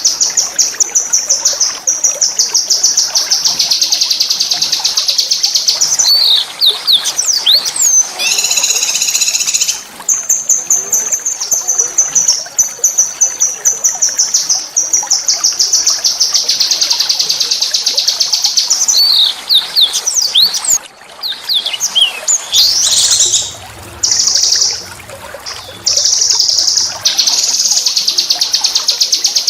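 A small songbird singing long, rapid high trills of fast-repeated notes. They are broken twice by short phrases of swooping, quickly rising and falling chirps.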